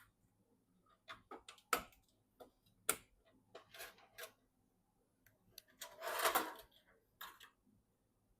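Irregular sharp clicks and knocks of small hard parts being handled, with a longer rustling scrape about six seconds in; the kind of handling noise made while assembling PC components.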